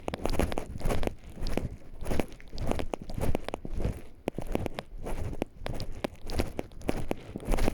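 Footsteps crunching on a forest path at a steady walking pace, about two steps a second.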